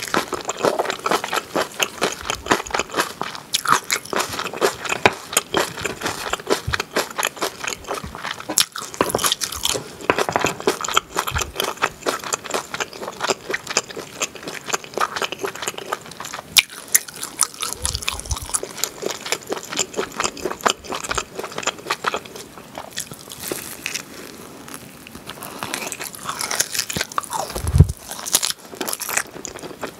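A person eating grilled pork back ribs and melted cheese, close-miked: a dense, continuous run of biting and chewing clicks. A couple of low thumps come through, the loudest near the end.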